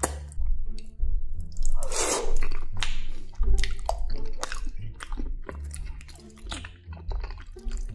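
Close-miked mouth sounds of a man chewing creamy macaroni and cheese: wet smacks and sticky clicks, with a louder, longer smack about two seconds in.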